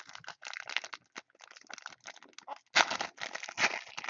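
Trading-card packaging being opened by hand: plastic wrapper crinkling and tearing in irregular rustles, busiest about three seconds in.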